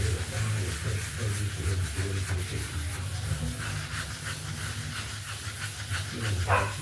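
Hand wet sanding of a boat's primed fiberglass hull: 120-grit wet sandpaper on a sanding block rasping in repeated back-and-forth strokes.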